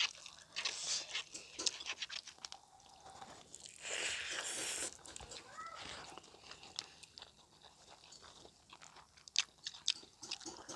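A person chewing food close to the microphone: irregular wet clicks and smacks of the mouth, with a brief rushing noise about four seconds in.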